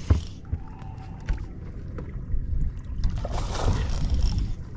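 Low rumble of wind on the microphone aboard a fishing boat, with a sharp knock right at the start and a short rush of noise about three and a half seconds in.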